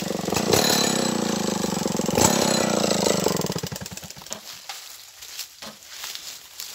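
Stihl 070 two-stroke chainsaw engine running hard, its revs falling away until it dies down about three and a half seconds in; a few faint knocks follow.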